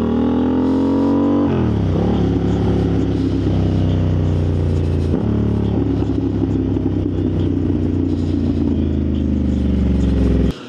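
Motorcycle engine under way, its pitch rising as it revs up, then dropping about a second and a half in and running fairly steady with a brief dip around five seconds. The engine sound stops abruptly near the end.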